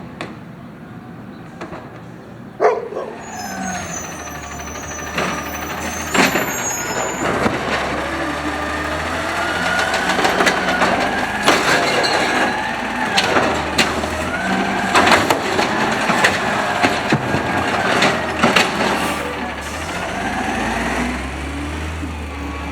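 Automated side-loader garbage truck working its hydraulics: a whine that rises and falls in pitch over the engine running, with a series of sharp metal bangs of the cart and arm slamming, the loudest about three seconds in.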